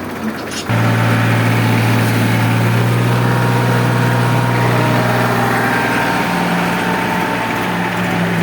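Tractor diesel engine running at a steady speed, a loud, even hum that comes in suddenly about a second in and holds without rising or falling.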